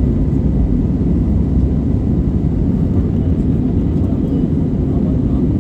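Passenger jet cabin noise: a steady, loud low rumble of engines and airflow heard from inside the airliner.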